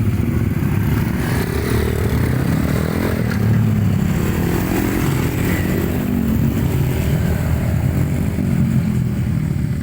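Motocross dirt bike engines running and revving, the pitch rising and falling.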